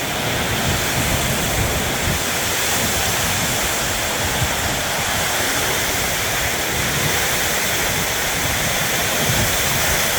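Heavy wind-driven storm rain pounding on a metal roof: a deafening, steady hiss with no let-up.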